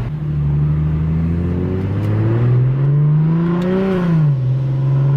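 Single-turbo BMW N54 inline-six engine pulling under acceleration, its note rising steadily for nearly four seconds, then dropping quickly near the end and settling at a steady lower pitch.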